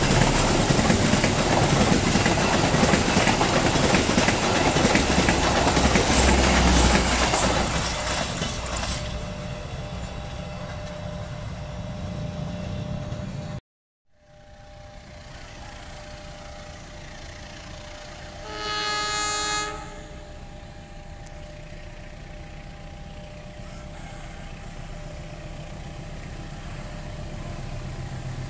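Passenger train coaches rolling past close by, a loud rush of wheels on rail that fades over several seconds and then cuts off. Later, an approaching diesel locomotive in the distance sounds its horn once, for about a second.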